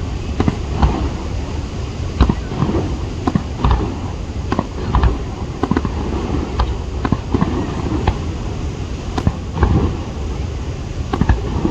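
Aerial fireworks bursting in a rapid, irregular series of sharp bangs and crackles, several every couple of seconds, over a steady rumble.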